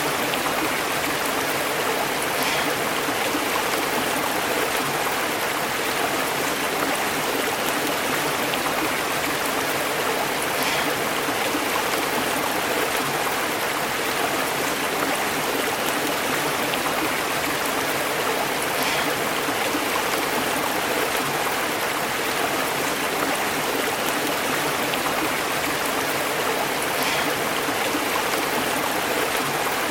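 Small stream burbling and bubbling steadily over rocks, an even continuous rush of flowing water.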